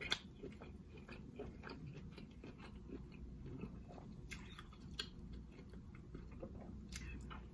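Faint close-up chewing of sauce-soaked lobster tail meat, with scattered wet mouth clicks and smacks.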